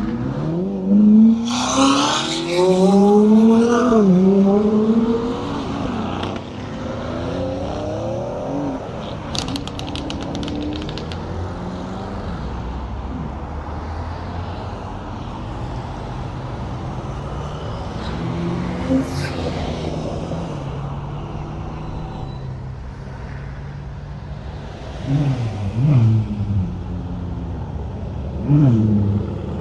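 Porsche 911 flat-six engine accelerating hard, its revs climbing and dropping twice as it shifts up, then running steadily. Two short throttle blips come near the end.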